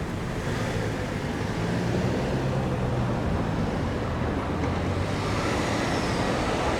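Tokyu 6000 series electric train approaching: a steady low rumble slowly growing louder.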